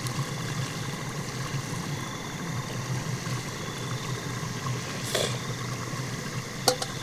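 Chicken gravy simmering in a pot over a wood fire, a steady bubbling hiss, with two short sharp pops, one about five seconds in and one near the end.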